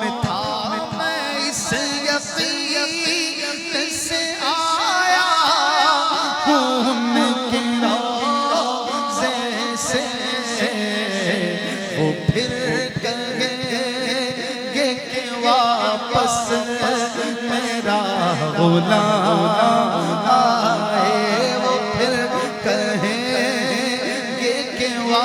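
A man's voice singing a devotional Urdu naat melody in long, drawn-out notes over a sustained drone that shifts down in pitch twice.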